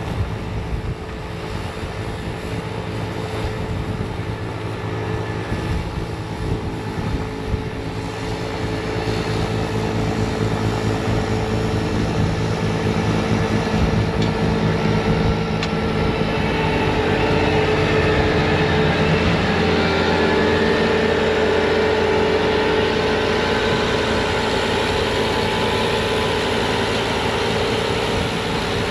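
Bobcat T66 compact track loader's diesel engine running steadily while driving a snowblower attachment, growing louder from about ten seconds in and then holding at the higher level.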